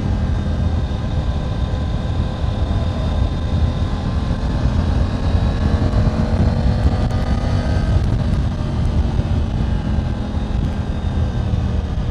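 Triumph Tiger 900 GT Pro's three-cylinder engine running under way, its pitch rising gradually from about four seconds in and levelling off near eight seconds as it gathers revs.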